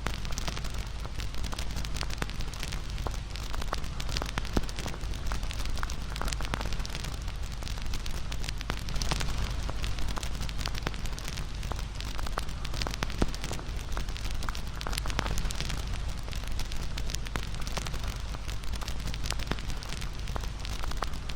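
Wood fire crackling, with frequent sharp pops and snaps scattered irregularly over a steady hiss and a low rumble.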